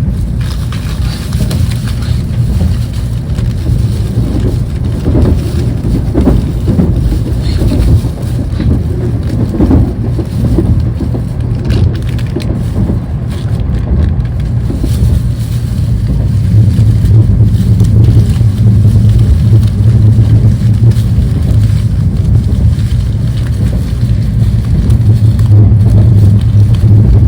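Tokaido Shinkansen bullet train running, a steady low rumble that grows louder about two-thirds of the way through.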